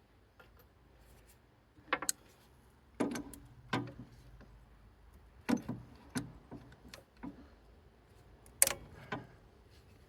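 Metal clinks and clicks of an adjustable spanner working the injector pipe nuts on a Kubota D905 diesel engine: a handful of sharp taps at irregular intervals, the loudest near the end.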